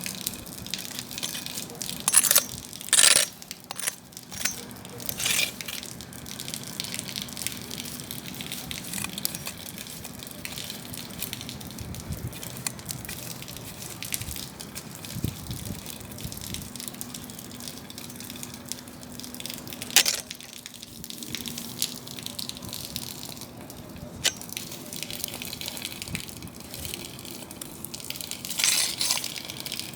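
Wood fire burning: a steady crackle with frequent small snaps and several louder pops, the sharpest about twenty seconds in.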